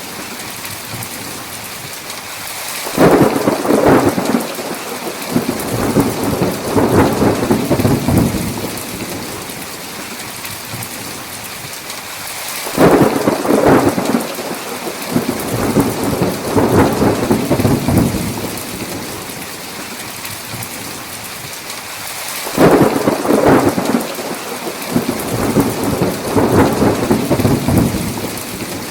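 Thunderstorm: steady heavy rain with three thunderclaps about ten seconds apart, each starting sharply and rumbling on for several seconds.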